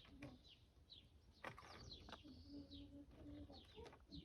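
Near silence with faint bird chirps in the background: short falling notes, repeated several times.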